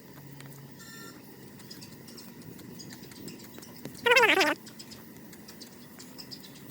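One short animal cry, about half a second long, about four seconds in, its pitch wavering and falling, over a faint steady background.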